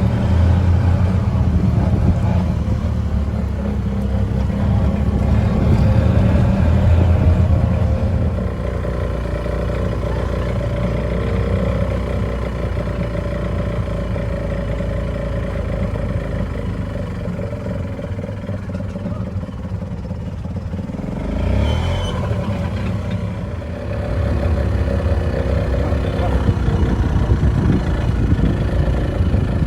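Golf cart running as it drives along, with steady low engine noise that eases off about twenty seconds in and picks up again a few seconds later.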